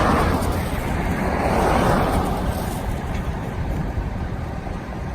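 6.7-liter Cummins turbo diesel of a Dodge Ram 5500 bucket truck running steadily with the PTO engaged, driving the hydraulics while an outrigger comes down. A rushing noise swells at the start and again about two seconds in.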